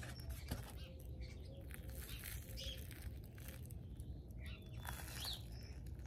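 Small birds chirping and tweeting in short, scattered calls, over a steady low background rumble.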